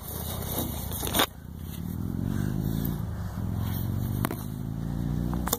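A motor vehicle's engine running nearby, its low hum slowly falling and rising in pitch over several seconds. Before it, about a second of scraping and rubbing close to the microphone ends in a sharp click, and another click comes about four seconds in.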